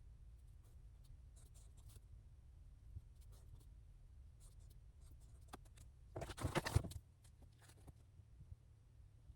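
Pen writing on paper in short, faint scratching strokes, with a louder rustle of paper about two-thirds of the way through, over a steady low room hum.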